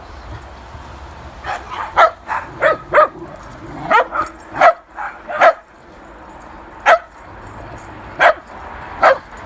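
Dogs barking: about a dozen short, sharp barks starting a second and a half in, coming quickly at first and then more spaced out.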